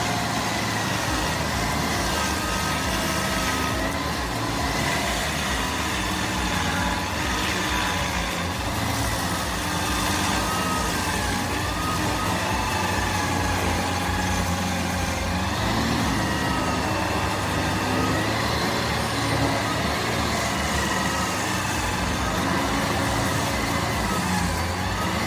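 Bandit SG75 stump grinder's engine running steadily, its pitch wavering up and down.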